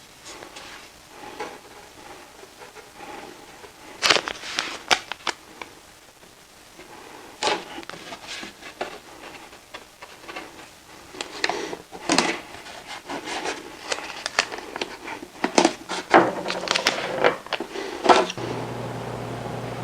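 Scattered knocks, clicks and rustles of wooden pieces being handled at a workbench. A low steady hum starts near the end.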